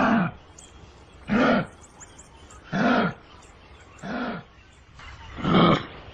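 Kangaroo calls: five short pitched calls, about one and a half seconds apart, each rising then falling in pitch.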